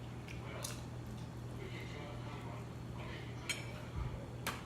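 Eating at the table: a few sharp clicks and clinks of a utensil against a plate, about three, the loudest near the end, over a steady low hum.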